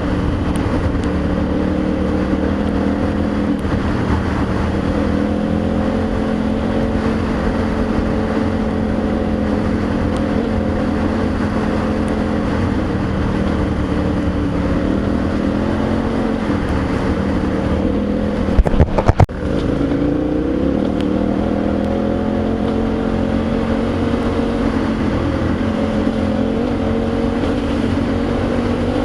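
Adventure motorcycle engine running at a steady cruising pace, with a rushing noise underneath. A short cluster of loud knocks comes about two-thirds of the way through.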